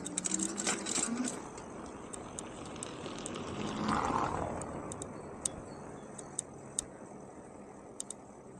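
Rush of wind and road noise from a moving electric bike, with scattered sharp clicks and rattles as it rides over cobbles. A broad swell of noise rises to a peak about four seconds in and then fades.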